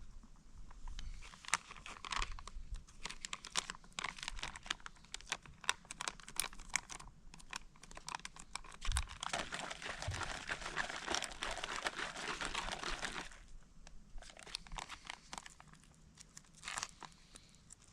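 Food packaging being handled: plastic or foil crinkling and crackling in irregular bursts. It thickens into a denser rush of noise for about four seconds midway, then thins to scattered crackles.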